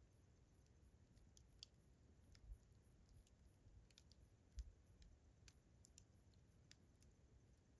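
Faint campfire crackling: irregular sharp pops and snaps of burning wood, the strongest about two and a half and four and a half seconds in. Crickets chirp steadily and high in the background.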